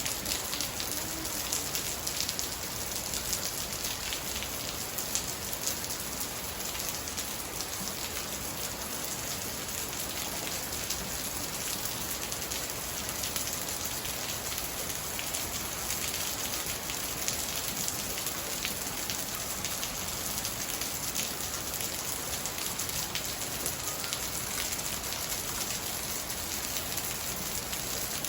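Steady rain falling, a dense patter of many small drop hits with no let-up.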